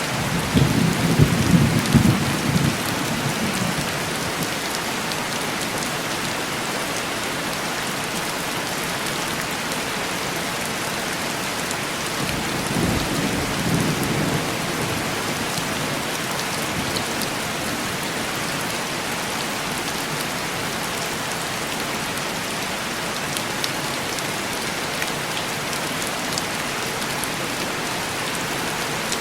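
Heavy rain pattering steadily on a window pane, with two rolls of thunder: a louder rumble in the first few seconds and a softer one about halfway through.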